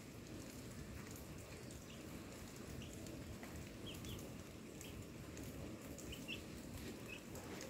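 Small birds chirping, short high chirps scattered about once a second, over steady low background noise.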